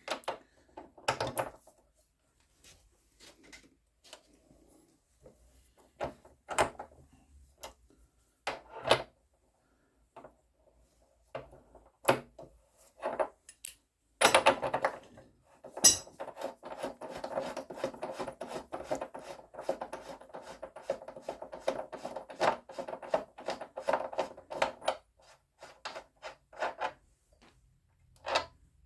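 Metal hand tools clinking and knocking on a motorcycle, with separate sharp knocks in the first half, then a long run of rapid clicking and rattling just past the middle.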